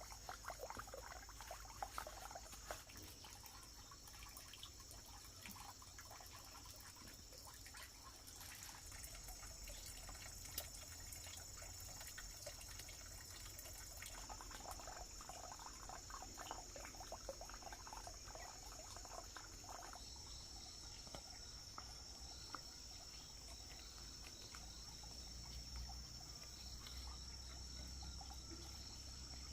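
Insects chirring steadily in a high, even drone, with scattered soft rustling and crackling now and then.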